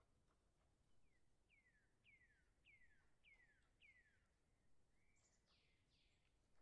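Faint birdsong: a run of six clear, falling whistled notes about half a second apart, then a louder, harsher call near the end.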